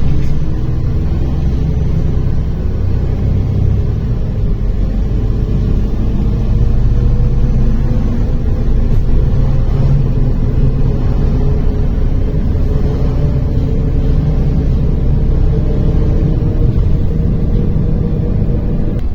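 MAZ-103 city bus heard from inside the cabin while under way: its engine and drivetrain keep up a steady low rumble. A faint whine rises slowly in pitch a few seconds in as the bus gathers speed, then holds.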